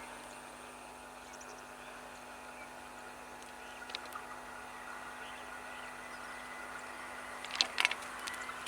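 Quiet background ambience: a steady low hum, with a faint tick midway and a few sharp clicks near the end.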